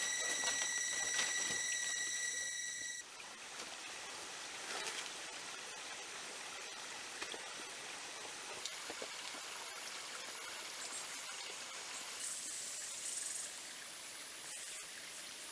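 A steady, high, whining insect chorus that cuts off suddenly about three seconds in. After it, running water trickles steadily with small ticks and splashes.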